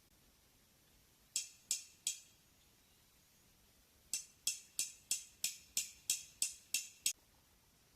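Sharp knocks: three spaced ones, then after a short pause a steady run of about ten at roughly three a second.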